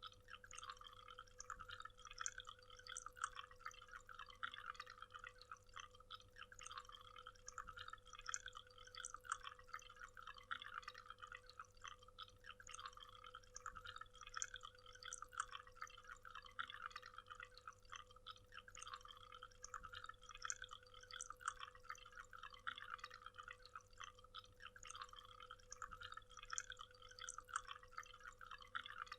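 Faint, steady waterfall: water splashing and trickling in many small, quick splashes and drips, with no deep roar.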